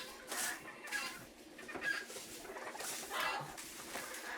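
Poultry making a few short clucking and chirping calls.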